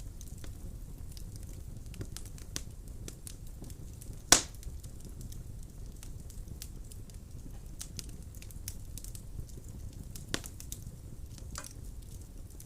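Wood fire burning in a fireplace: a low steady rumble of flames with scattered crackles. A loud sharp pop comes about four seconds in, and a smaller one near ten seconds.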